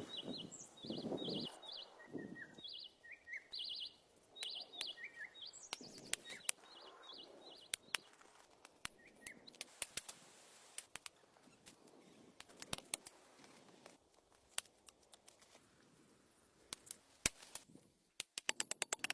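Small birds chirping in quick repeated notes during the first six seconds or so. Rustling in the first couple of seconds and scattered sharp clicks and knocks throughout, with a fast run of clicks near the end.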